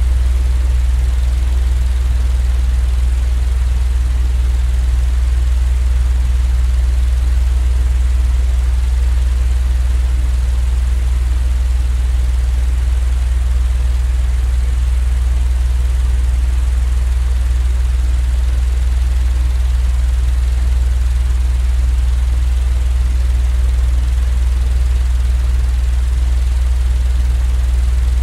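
Steady, unbroken low rumble with a faint hiss above it, a continuous machine-noise sleep track that does not change.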